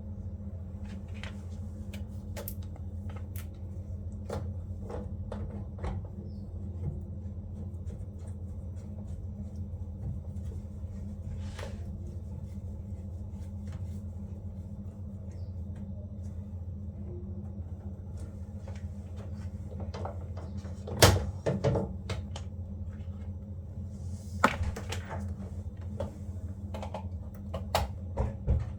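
Steady low hum with scattered clicks and knocks of parts being handled on a washing machine, with two louder knocks about two-thirds of the way through.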